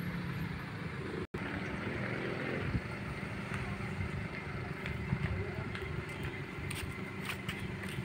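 Honda Brio hatchback's engine running at low speed as the car manoeuvres slowly at close range, a steady low hum. The sound cuts out for an instant just over a second in.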